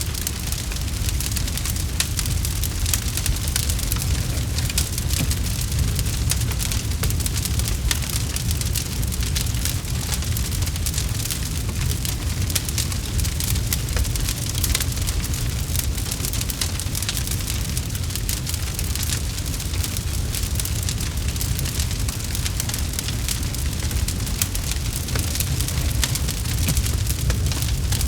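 Campfire burning, with a steady low rush of flame and many quick crackles and pops from the burning wood.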